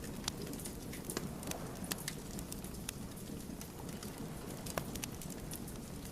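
Wood fire crackling: irregular sharp pops and snaps from burning logs over a steady low rush of flame.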